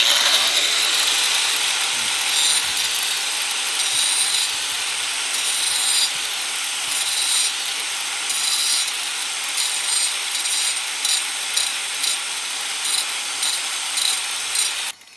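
Angle grinder running against the freshly broken edge of a natural stone, roughing it down so the cut looks uneven and organic rather than straight. It starts abruptly and cuts off near the end.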